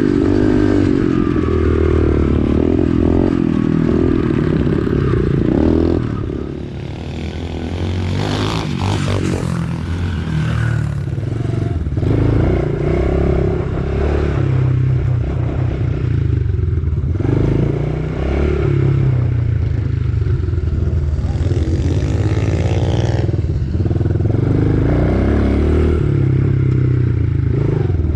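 Pit bike's 110cc single-cylinder four-stroke engine revving up and down as it is ridden round a dirt track, the throttle opening and closing every few seconds. It eases off about six seconds in, with a brief burst of rushing noise soon after.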